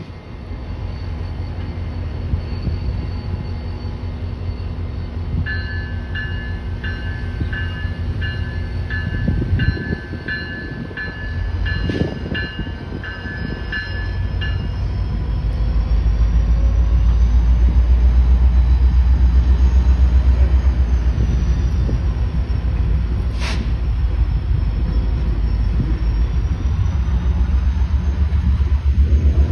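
Freight train passing: railcars rumbling by while a bell rings about once and a half a second for some ten seconds. About halfway through, diesel locomotives come by and a deep, loud engine rumble takes over, with a couple of sharp knocks.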